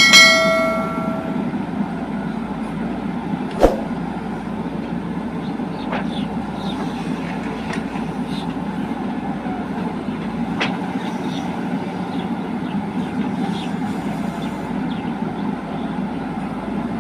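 Heavy diesel machinery engine running steadily, with a loud ringing metallic clang right at the start and a single sharp knock about four seconds in.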